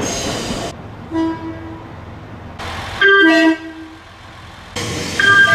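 JR West train horns sounding in short pitched blasts, the loudest about three seconds in stepping from one note to a lower one, over train running noise that changes abruptly between cut-together clips.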